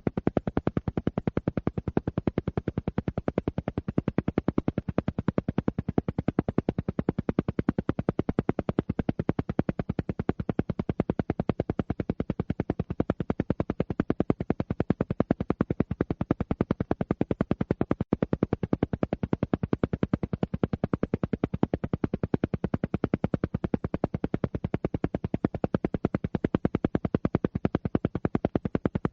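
Alpha-wave entrainment audio: a steady train of rapid, evenly spaced isochronic pulses, about ten a second, in the alpha brainwave range.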